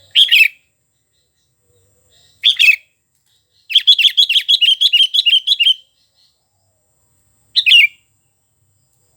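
Sooty-headed bulbul (kutilang) singing loudly: short whistled phrases a few seconds apart, with a rapid run of about a dozen repeated notes lasting about two seconds in the middle.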